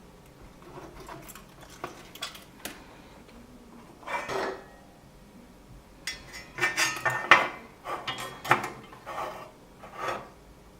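Small metal hand tools clinking and scraping against a circuit board and bench during soldering work, in scattered clicks with a short scrape about four seconds in and a busier run of clicks and scrapes from about six to eight and a half seconds.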